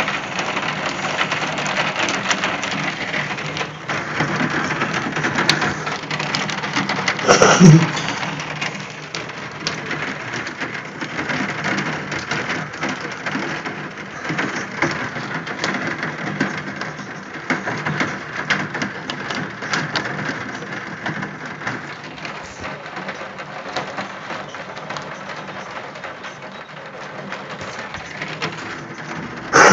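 Heavy rain mixed with hail pelting down, a dense steady hiss full of sharp ticks from the hailstones striking surfaces. A brief louder sound with a falling pitch cuts in about seven seconds in.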